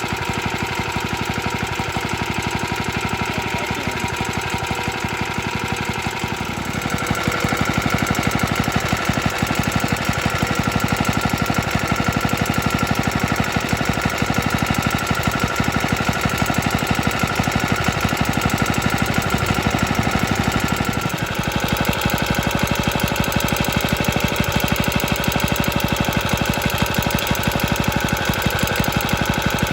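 Early 1950s Suffolk Iron Foundry Model 1A small stationary engine running with a rapid, rattly beat. It gets louder about six seconds in, dips briefly around twenty seconds, then picks up again.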